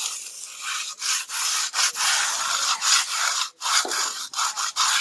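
Plastering float scraping and rubbing across a wet rendered wall in repeated hand strokes, each a rasping sweep broken by short pauses.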